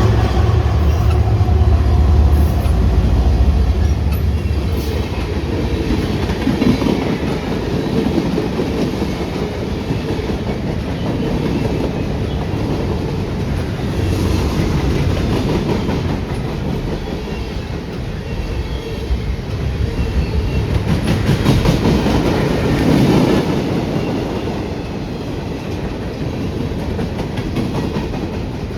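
A train passing on the main line, its wheels clattering steadily over the rail joints. A heavy low locomotive rumble fades over the first few seconds, and the clatter swells twice later on as more cars roll by.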